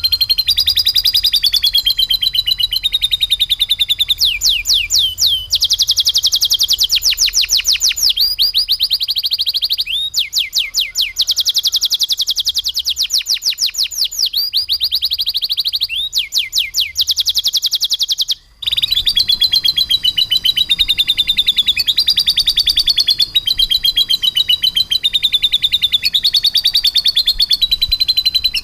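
Domestic canary singing continuously in fast rolling trills and rapid rattling runs, the canary song built on lovebird-style phrases. There is a short break about two-thirds of the way through.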